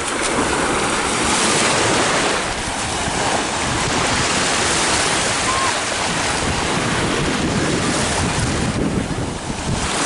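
Baltic Sea surf washing ashore in broad swells that rise and fall every few seconds, with wind buffeting the microphone.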